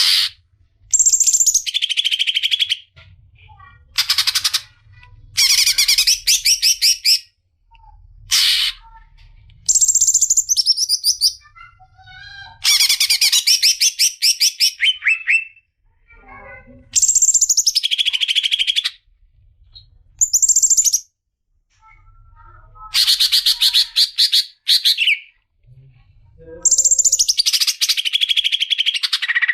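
Green leafbird (cucak ijo) singing: about ten loud bursts of rapid, high chattering song, each a second or two long and often dropping from a high start to a lower pitch, with short pauses between.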